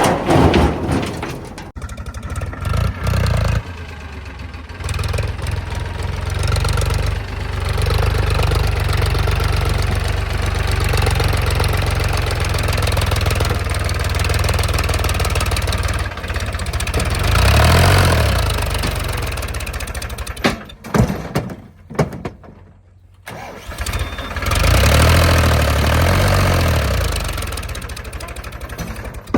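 Diesel engines of a JCB 3DX backhoe loader and farm tractors running steadily under work. The engine note swells up and back down twice, about halfway through and again near the end, with a short break in between.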